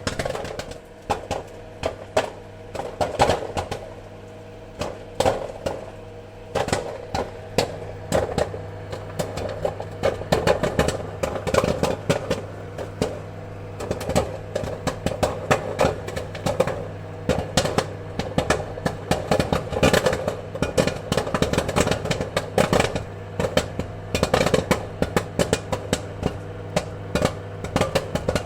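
Popcorn kernels popping: sharp, irregular pops over a steady low hum, sparse for the first several seconds and then coming thick and fast.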